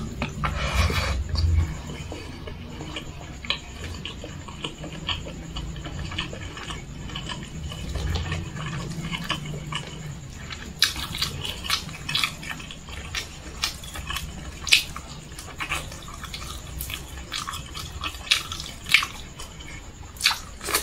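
Close-miked chewing and lip smacking of someone eating fried chicken and rice by hand: a run of short sharp clicks that come more often in the second half.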